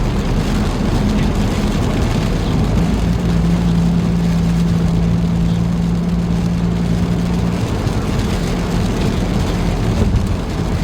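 Car running down the road, heard from inside the cabin: steady engine and tyre noise, with a low drone that holds for a few seconds midway.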